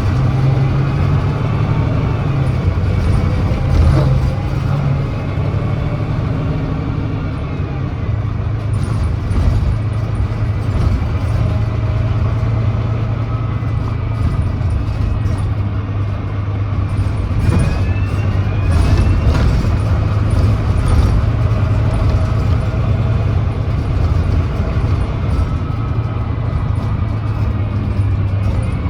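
Volvo D9B 9.3-litre diesel engine and ZF Ecolife automatic gearbox of a Volvo B9TL double-decker bus, heard on board while it drives, with a steady low engine drone. A thin gearbox whine rises in pitch about 17 seconds in as the bus picks up speed. The bus is known to have an exhaust leak.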